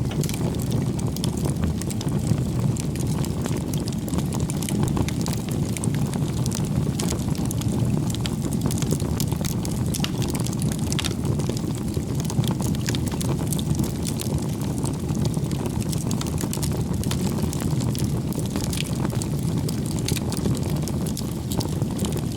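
Bonfire of firewood burning: a steady low rumble of the flames with frequent small crackles and pops scattered throughout.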